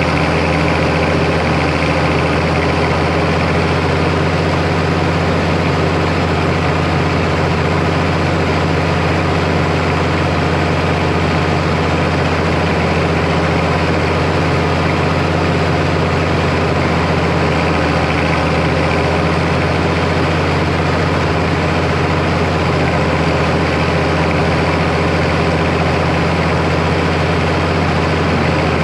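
International Harvester 1086 tractor's six-cylinder turbo diesel running steadily at a constant pace while bush hogging. It turns a rotary cutter, with no change in speed.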